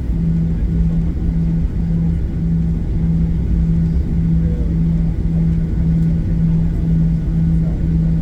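Cabin noise of a Boeing 737-800 taxiing: the engines at idle give a steady low rumble, over which a hum pulses on and off about twice a second.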